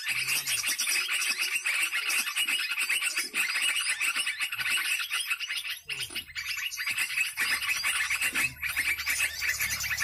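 Dense, continuous chirping and chattering of small birds.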